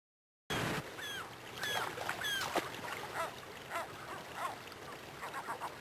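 Birds calling: many short calls, several a second, over a steady hiss, starting abruptly about half a second in.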